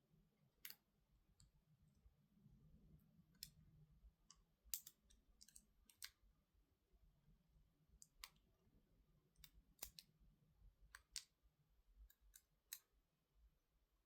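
Faint, irregular small clicks and light taps, about fifteen spread unevenly over several seconds, from small tools and parts being handled while working inside a MacBook Pro laptop.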